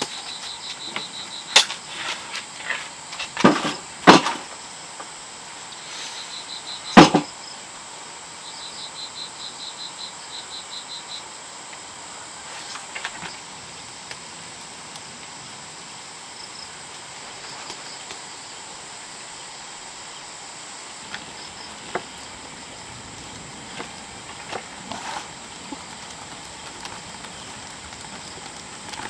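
Crickets chirping in short rapid trills over a steady high insect buzz. Four loud sharp knocks come in the first seven seconds, with a few faint ticks later.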